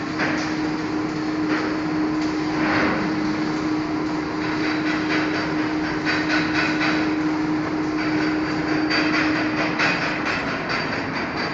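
Electric arc welding: the arc crackling and sputtering over a steady hum, the crackle growing denser from about four seconds in.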